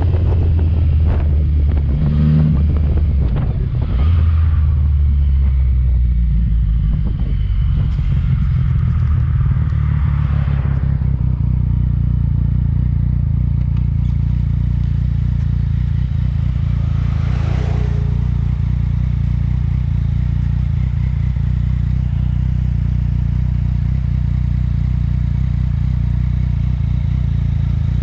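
Yamaha MT-09 inline-three engine running through a Yoshimura exhaust. The revs change a few times in the first five seconds, then hold steady at a constant pitch.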